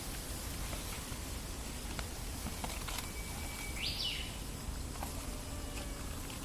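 Steady soft ambient noise with scattered light ticks, and one short high chirp that rises sharply in pitch about four seconds in.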